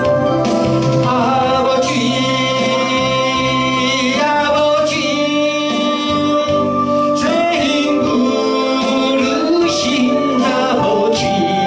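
Gospel song: a voice singing long, wavering held notes over steady instrumental accompaniment.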